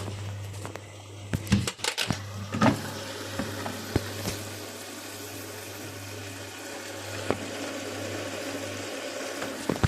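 Bosch Avantixx 6 front-loading washing machine running its wash cycle, with water sounds. There are a few clunks and clicks in the first three seconds, over a steady low hum.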